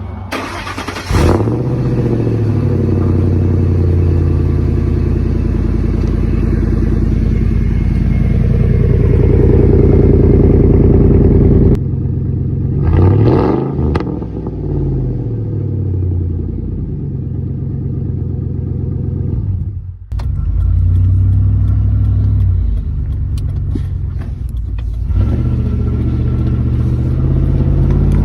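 Ford 4.6-litre V8 truck engine started and running, its speed rising and falling as it is revved several times; the engine is one its owner says runs like garbage, freshly dosed with fuel system cleaner.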